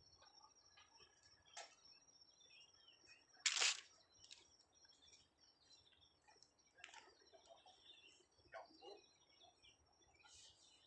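Birds chirping now and then over a steady high insect drone in hillside scrub, all faint. One brief, louder noisy scuff about three and a half seconds in stands out over the rest.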